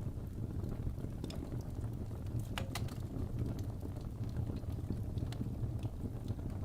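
Crackling wood fire: scattered sharp pops and snaps, two louder ones close together a little before the middle, over a steady low rumble.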